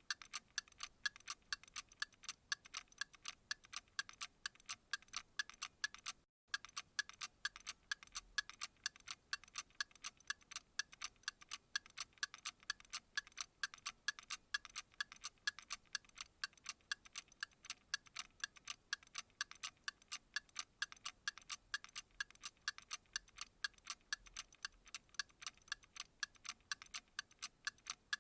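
Fast, even ticking that repeats steadily, with a brief dropout about six seconds in.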